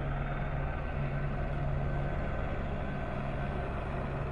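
A steady, low engine hum with a constant pitch and no bangs or breaks.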